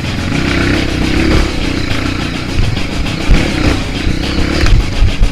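Off-road motorcycle engine running and revving, its pitch rising and falling, with music playing over it.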